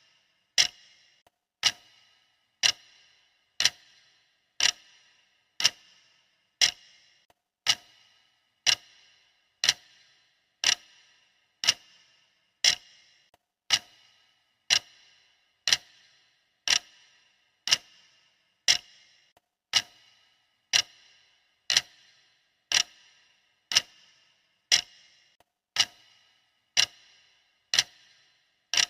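Clock ticking steadily, one sharp tick about every second, each with a short fading ring.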